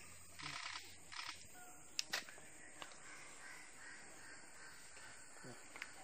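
A wild forest bird gives two short, harsh, crow-like calls in quick succession, then a couple of sharp clicks ring out about two seconds in, with faint thin calls of other birds after them.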